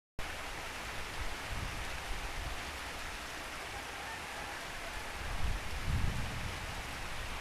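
Heavy rain falling steadily, an even hiss, with a couple of low rumbles about a second in and again around six seconds.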